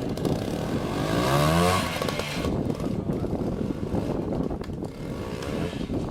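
Montesa Cota two-stroke single-cylinder trials motorcycle engine running with an RM Lightning electronic CDI ignition, revved up about a second in and again near the end.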